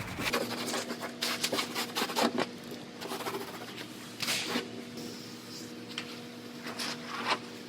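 Scuffing of a primed lower body panel: irregular scratchy rubbing strokes with a few clicks, over a steady low hum.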